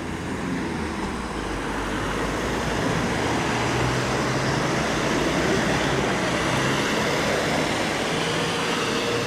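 Road traffic: a motor vehicle driving past, its engine and tyre noise building up over a few seconds and holding before easing off at the end.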